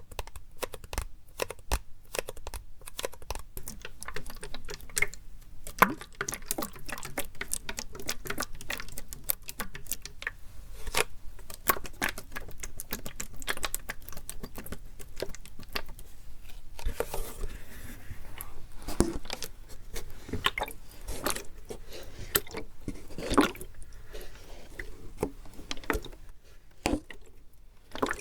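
Plastic drink bottle handled close to the microphone: a dense, irregular run of small taps and clicks, with a few louder knocks.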